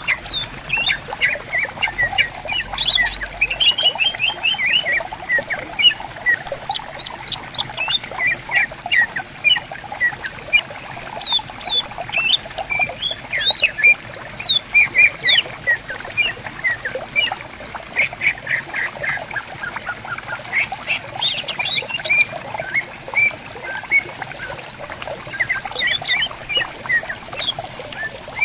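Green leafbirds (cucak ijo) singing and calling back and forth: a dense, continuous stream of quick chirps and whistled notes. A faint running-water hiss lies underneath.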